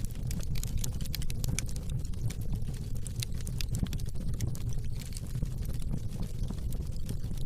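Oak-log fire in a fireplace crackling: many short sharp snaps over a low steady rumble of the flames.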